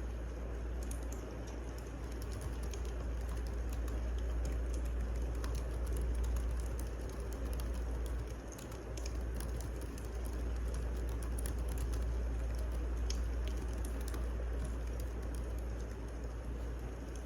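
Wood fire crackling, with scattered small sharp pops over a steady low rumble.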